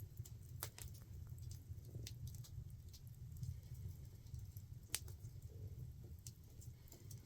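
Faint wood fire crackling, with scattered irregular snaps and one sharper pop about five seconds in, over a low steady rumble.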